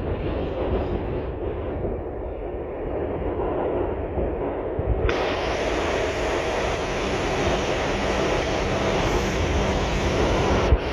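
R142 subway car running between stations, heard from inside the car: a steady rumble and wheel noise. About five seconds in, the sound abruptly turns brighter and hissier, and there is a short knock just before the end.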